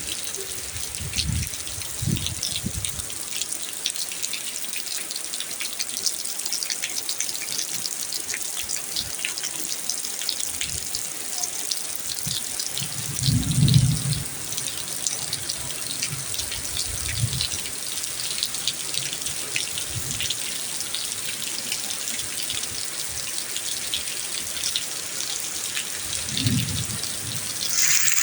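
Rain falling steadily: a dense hiss of countless fine drop ticks, with a few brief low rumbles, the loudest about halfway through.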